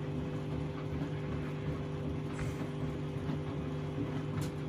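Washing machine running on its down (duvet) programme with a pillow in the drum: a steady motor hum with a low rumble and a few faint clicks.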